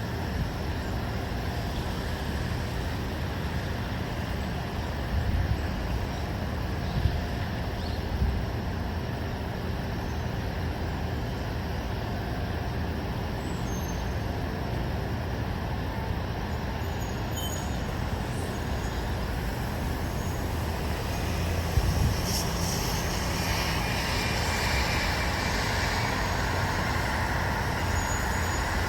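Steady low rumble of distant road traffic, with a few brief bumps and a louder hiss coming in from about twenty-two seconds on, as of a vehicle passing closer.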